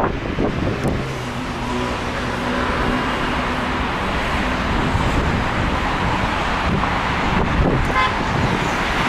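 Road traffic passing on a windy street, with wind buffeting the microphone; a passing vehicle's engine hum stands out about two to four seconds in.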